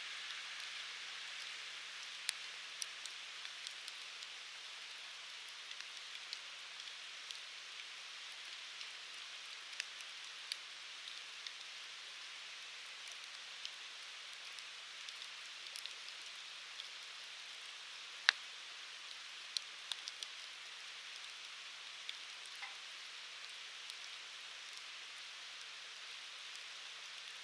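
Firewood burning in a Uniflame Fire Grill: a steady hiss with scattered crackles and sharp pops, the sharpest about two-thirds of the way through.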